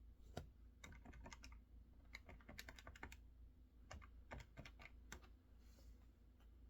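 Faint typing on a mechanical keyboard: quick runs of key clicks in four short bursts, stopping about five seconds in.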